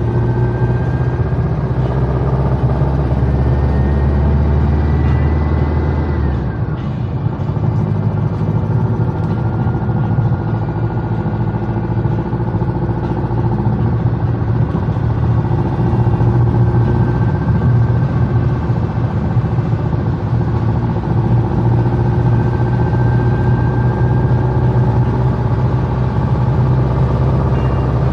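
Air-cooled flat-four engine of a Volkswagen Type 1 Beetle running as the car is driven, heard from inside the cabin, with tyre noise from the wet road. The engine note changes about six seconds in: the deepest drone drops away and a high whine falls.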